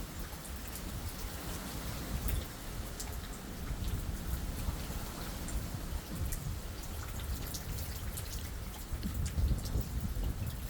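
Rain falling during a thunderstorm, with many separate drops ticking sharply against a surface over a steady hiss of rain and a low, uneven rumble underneath.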